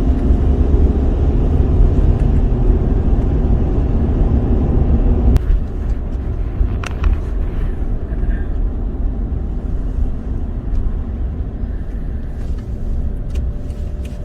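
Road and engine noise inside a moving car: a steady low rumble that turns suddenly quieter and duller about five seconds in, with a few faint clicks later on.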